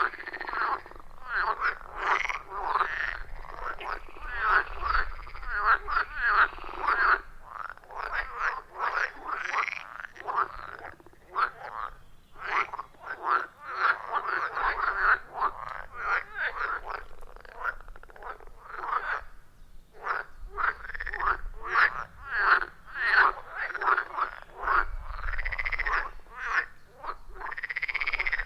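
A chorus of many frogs calling together, short croaking calls overlapping densely, several a second, with a few brief lulls.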